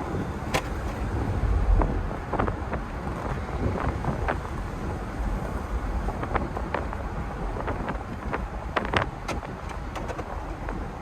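1988 Mercedes-Benz 560SL's V8 running while driving: a steady low rumble with road noise and wind buffeting the microphone, plus scattered short clicks and knocks.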